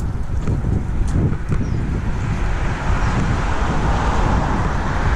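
A car passing close by on the road, its tyre and engine noise swelling from about halfway through and fading near the end, over wind rumbling on the microphone.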